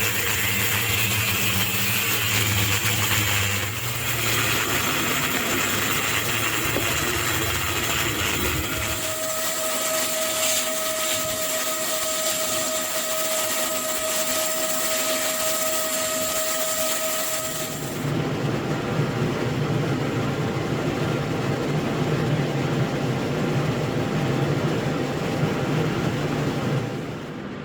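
Workshop power tools cutting and shaping metal stock, in three stretches of steady running noise. About nine seconds in, the sound changes to a tool with a steady whining tone. About eighteen seconds in, it changes again to a lower-pitched running machine.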